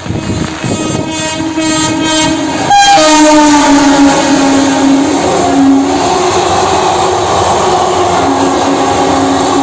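An Indian Railways locomotive horn sounding long as an express train comes up and passes close by. The horn's pitch drops sharply about three seconds in as the locomotive goes past, and the horn keeps sounding on and off over the running train.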